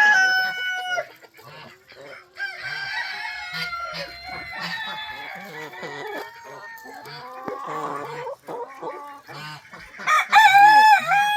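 A rooster crowing: one crow finishing about a second in and another starting near the end, with hens clucking and calling in between.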